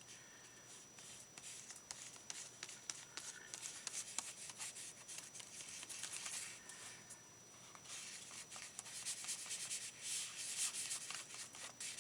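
Silicone brush rubbing Mod Podge onto paper, with paper rustling: scratchy swishing strokes in two spells, the second starting about eight seconds in.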